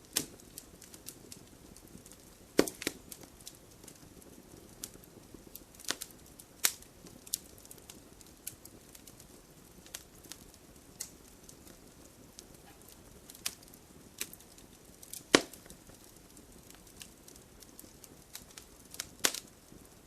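Wood fire crackling: burning logs give irregular sharp pops and snaps over a low steady hiss, with a few louder pops, the loudest about two and a half seconds in and about fifteen seconds in.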